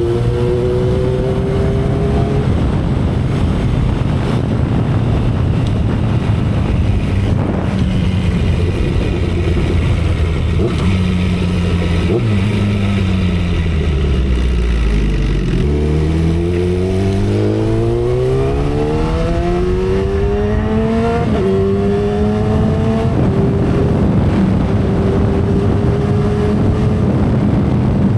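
2012 Kawasaki Ninja ZX-10R inline-four engine with heavy wind rush on the microphone. The revs rise at the start, then fall for a few seconds about halfway through. The engine then pulls hard with rising revs and clicks up through two gear changes, pitch dropping at each shift, and settles into a steady cruise.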